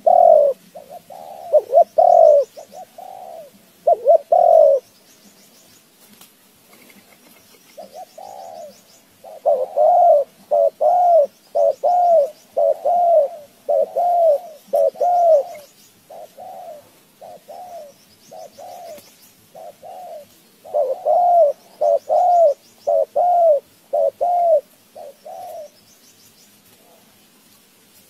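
A pigeon or dove cooing: runs of short, arched, repeated coos at about two a second, in three bursts with pauses between them. Faint high chirps from smaller birds sit in the background.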